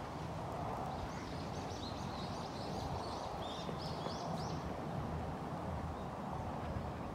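Steady outdoor background noise with a low rumble. About a second in, a bird gives a quick run of short, high chirps lasting a few seconds.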